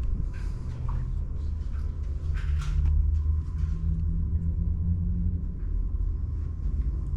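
A low, unsteady rumble with a faint steady high tone above it.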